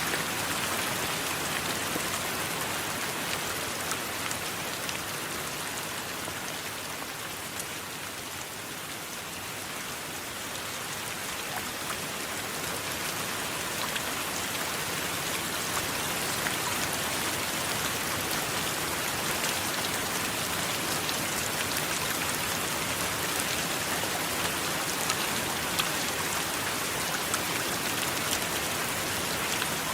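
Steady heavy rain falling on a surface, with fine drop ticks. It eases slightly about a third of the way in and builds back up.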